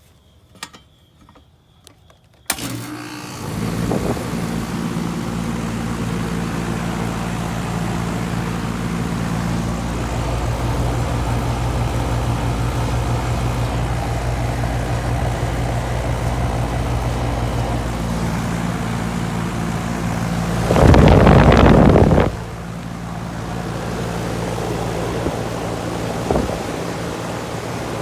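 A 2011 Goodman central air conditioner's outdoor condensing unit starts up: after a few faint ticks it kicks on abruptly about two and a half seconds in, and its compressor hum and condenser fan build within a second to a steady run. Near the end a loud rushing burst lasts about a second and a half, then the steady running continues.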